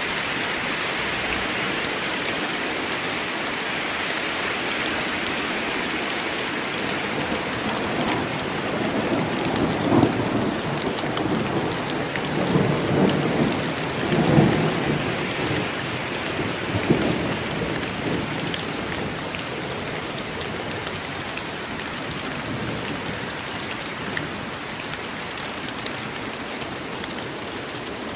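Steady rain falling in a forest, with a roll of thunder rumbling through the middle and swelling in several peaks before it fades.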